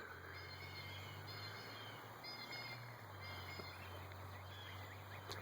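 Faint chirps of small birds singing in the woods, a few short phrases spread out over a steady low outdoor hum, with a small click near the end.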